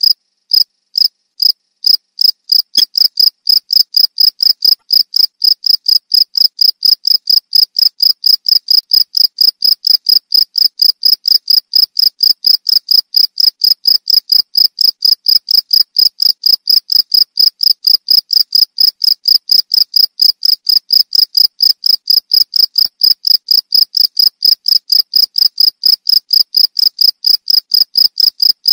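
Cricket chirping, a loud, high-pitched chirp repeated steadily at about three a second. The first few chirps are spaced wider apart, and the pace quickens within the first couple of seconds.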